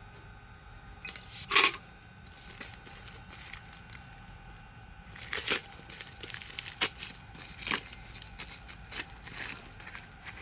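Irregular clicks, knocks and clinks of hard parts being handled, as when a power tool is taken apart or put back together. The loudest cluster comes about a second and a half in, another just past five seconds, with scattered lighter ticks between.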